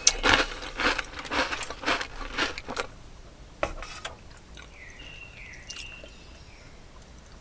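Close, crunchy chewing: a run of sharp crunches about twice a second for nearly three seconds, then a single click.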